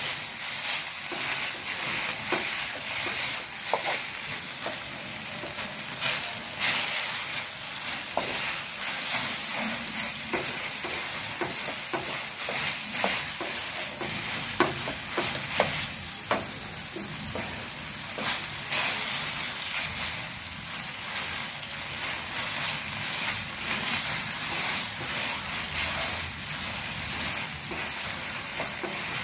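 Khoa (mawa) sizzling in ghee in a non-stick pan as it is roasted, while a wooden spatula stirs and scrapes it, with scattered knocks of the spatula against the pan, a few louder ones about halfway through.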